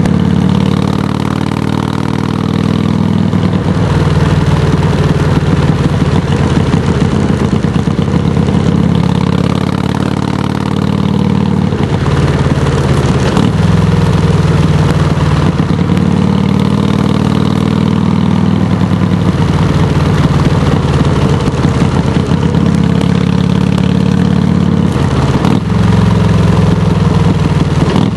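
Harley-Davidson touring motorcycle's V-twin engine running through Samson Silver Bullet mufflers, loud and steady at idle, its pitch rising and falling gently a couple of times.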